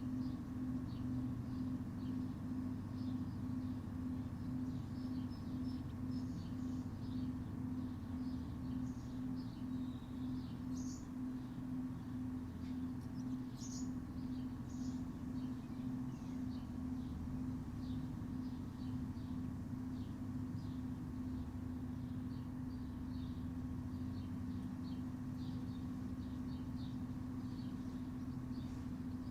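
Backyard ambience: a steady low machine hum with a slow regular pulse, under many short, high bird chirps scattered throughout.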